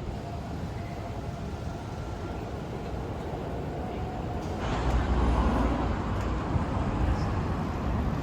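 Steady street traffic noise, growing louder about halfway through as a vehicle passes close.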